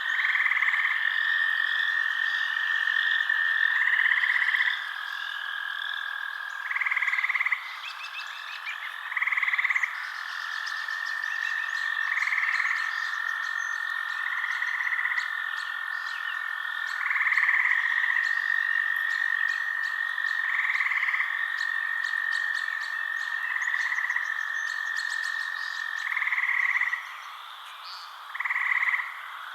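Night chorus of frogs: a steady high trilling drone, with louder calls standing out every two to three seconds and fast ticking trills above it.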